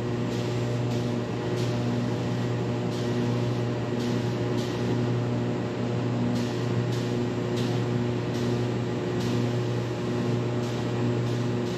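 Steady electric motor hum with a faint regular pulse, the drone of running shop ventilation or motor-driven equipment, with occasional soft hissy streaks over it.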